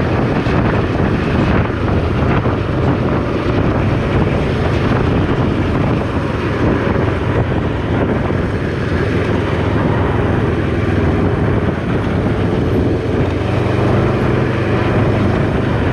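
Can-Am Ryker 600 three-wheeler's twin-cylinder engine running at a steady cruising pace, with wind rushing over the microphone.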